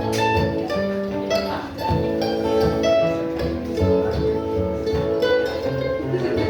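Acoustic string band playing an old-time tune: quick, steady picking on guitar and other plucked strings.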